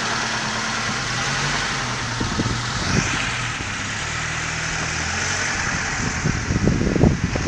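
Gusty wind rushing steadily, with the gusts buffeting the microphone in uneven low rumbles, most densely near the end.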